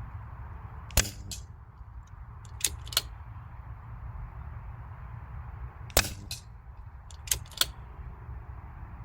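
Two shots from a Daystate Red Wolf PCP air rifle, sharp cracks about five seconds apart, each followed a moment later by a fainter click. After each shot come two quick metallic clicks as the cocking lever is pulled back and pushed forward to load the next pellet.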